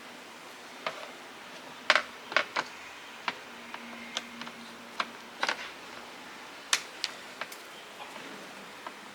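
Irregular light clicks and knocks from small tools and parts being handled during an angle grinder repair, about a dozen over several seconds.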